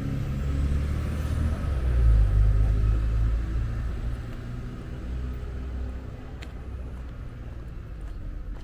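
A motor vehicle driving past close by, its engine rumble swelling to a peak about two seconds in and then fading as it moves away.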